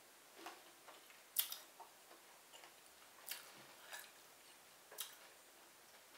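Close mouth sounds of a person eating lobster meat: scattered wet clicks and smacks of chewing at uneven intervals, the loudest about a second and a half in.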